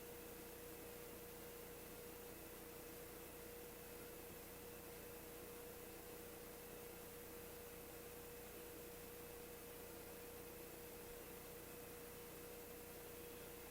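Near silence: a steady hiss with a faint constant hum-like tone, unchanging throughout.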